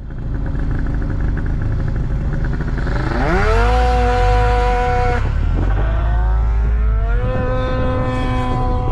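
2002 Mazda Miata's 1.8-litre four-cylinder engine running while the car is stationary at the start line, staged for launch. About three seconds in it is revved up and held at a steady higher speed for a couple of seconds, drops back, then about seven seconds in it is revved up again and held.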